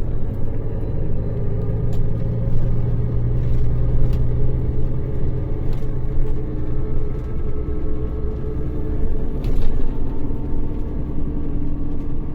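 Scania K400 bus's six-cylinder diesel engine running steadily, a low drone that rises slightly in pitch over the first few seconds and then holds, with a few faint clicks over it.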